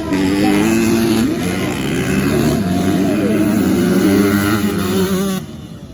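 Several motocross race bikes' engines running at high revs together, their pitch wavering up and down as the riders work the throttle. The sound cuts off abruptly near the end.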